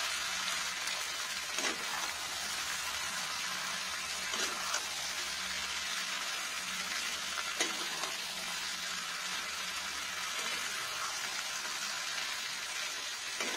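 Raw chicken pieces, capsicum and onion sizzling in hot oil in a non-stick kadai while a spatula stirs them, with a few light scrapes of the spatula against the pan.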